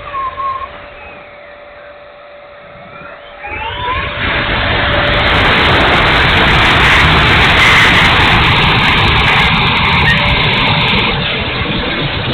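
Electric ducted fan of an E-flite F-16 70 mm RC jet: quieter at first with a faint rising whine, then a loud, steady rushing from about three and a half seconds in.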